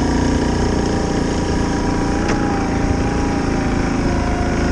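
An engine running steadily at a constant speed, with a faint click about two seconds in.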